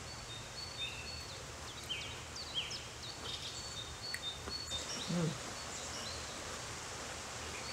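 Birds chirping: short whistled notes and quick falling sweeps, repeated many times over a steady hiss. A brief low hum from a person about five seconds in.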